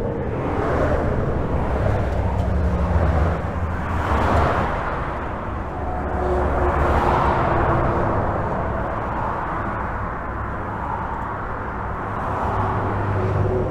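Steady highway traffic heard from under a bridge: a continuous rumble of cars and trucks, with passing vehicles swelling and fading every few seconds.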